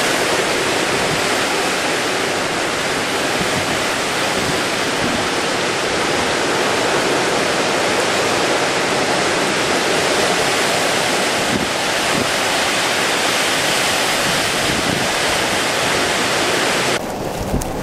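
Storm-force wind and heavy surf making a loud, steady rush of noise, with wind buffeting the microphone. About a second before the end the sound changes abruptly and becomes a little quieter and duller.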